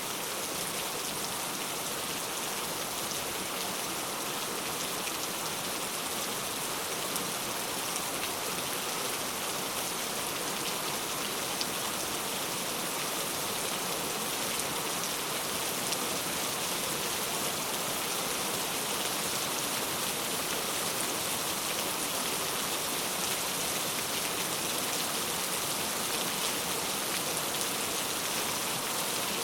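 Steady rainfall: a continuous hiss of rain with scattered faint drop ticks.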